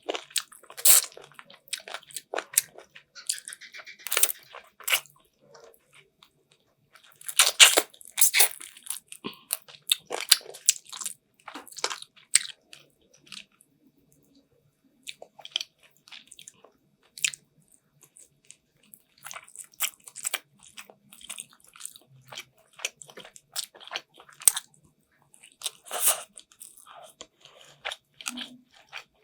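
Close-miked eating: biting and chewing chicken afritada, a run of irregular sharp mouth clicks and smacks that is busiest about a quarter of the way in, with a few short pauses.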